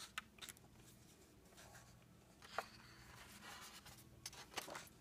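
Near silence with faint paper rustling and a few soft ticks, about a second apart near the end, as the pages of a heavyweight-paper coloring book are handled and turned.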